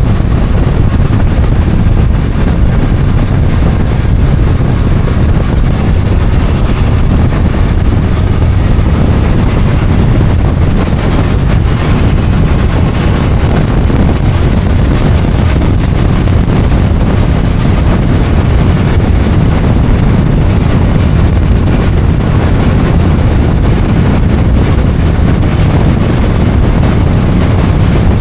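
Steady wind rush on the microphone over the running engine of a BMW F800GS motorcycle, a parallel twin, while riding.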